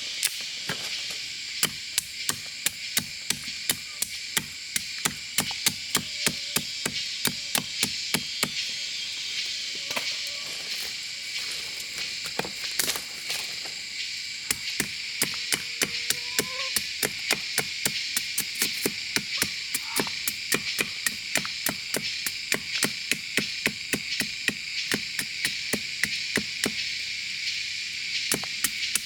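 Steady, rapid chopping or hacking strikes on wood, about three a second, with a constant high buzz of insects behind them.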